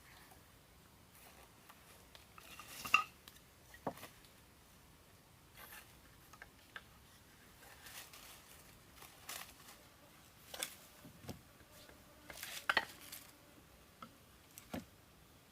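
Scattered light knocks and clinks of objects being handled, irregularly spaced, the loudest about three seconds in and again a few seconds before the end.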